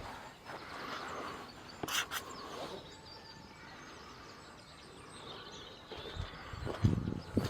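Small birds chirping faintly over quiet outdoor background noise, with a brief sharp click about two seconds in. Near the end, footsteps start at an ordinary walking pace.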